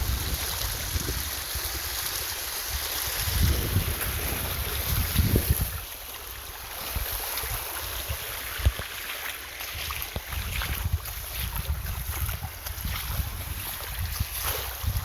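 Stream water running with a steady hiss, with wind buffeting the microphone in low rumbling gusts over the first half. About nine seconds in there is one sharp knock.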